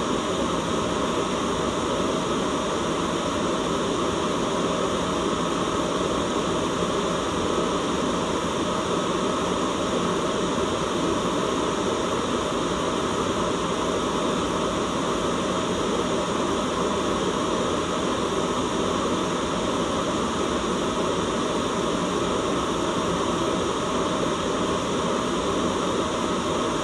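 Continuous white noise for sleep or masking: an even, unchanging rush that is fuller and deeper than pure hiss.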